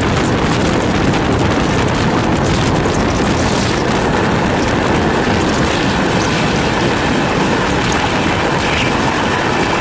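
Steady loud rush of wind over the microphone mixed with the rumble of an express train's wheels on the track, heard from the open door of a coach running through a station at about 80 km/h, close alongside parked coaches.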